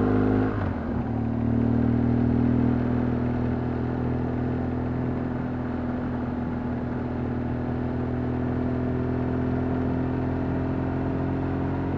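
Vehicle engine running while driving, with road noise. Its pitch drops about half a second in, then holds steady.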